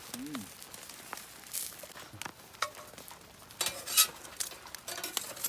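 Eating utensils clicking and scraping against dishware, scattered light clinks with a louder clatter about four seconds in.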